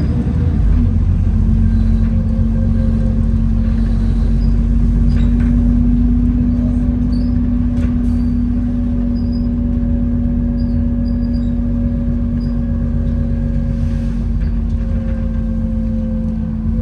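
Alexander Dennis Enviro400 double-decker bus heard from inside while on the move: a low rumble with a steady whine that sets in about a second in and holds until the very end. This is the whine the uploader calls the bus's "hoover" noise.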